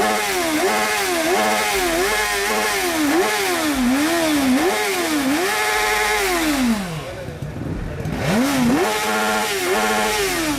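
Superbike engine with an aftermarket exhaust being revved while standing: a run of quick throttle blips, the pitch rising and falling about twice a second, then a held rev that drops away. After a short lull it is revved up and held again near the end.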